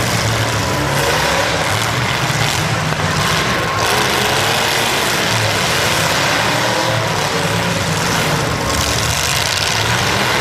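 Demolition derby car engines running and revving, their pitch rising and falling over a continuous background of engine noise.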